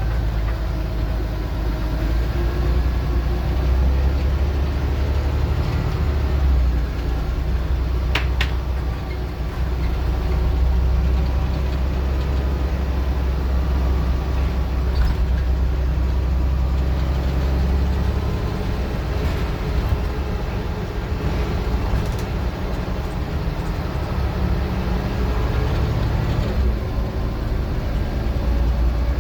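Scania N94UD OmniDecka double-decker bus's diesel engine running under way, a steady low drone that eases off about two-thirds of the way through and builds again near the end.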